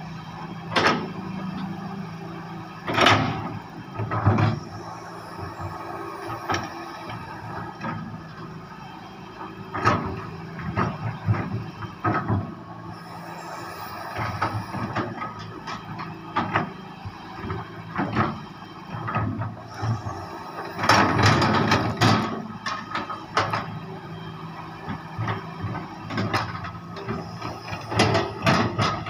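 Heavy excavator working: its diesel engine runs steadily under repeated metallic clanks, scrapes and squeals from the bucket and arm. The loudest bursts come about three seconds in and again just past twenty seconds.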